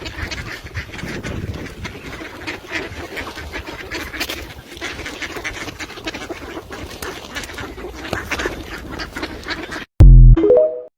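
A crowd of ducks quacking and clamouring while being fed, mixed with many short clicks and scuffles. About ten seconds in it cuts off, and a brief, very loud pitched sound with falling tones follows before silence.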